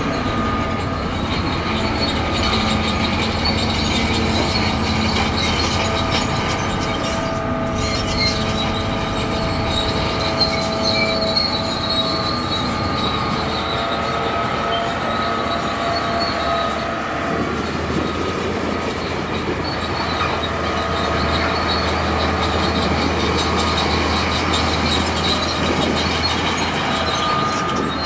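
Bulldozer's diesel engine running steadily under load, with its steel crawler tracks squealing as it pushes through mud.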